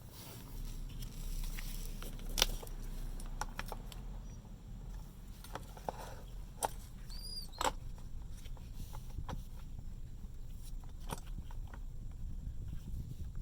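Scattered clicks and light knocks of fuel pump parts being handled, over a low steady hum, with one short high squeak about halfway through.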